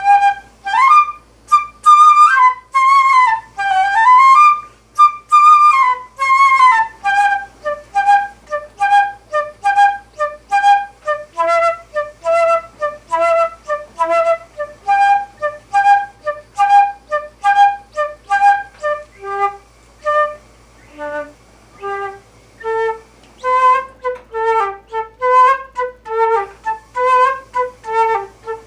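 A flute playing a slow melody. Long held notes with vibrato and slides come first, then from about seven seconds in a long run of short, separate notes.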